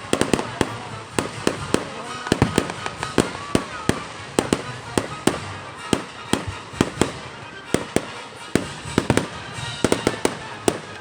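Fireworks going off in a rapid, irregular barrage of sharp bangs and crackling pops, several a second. A few brief whistling tones come in the first few seconds.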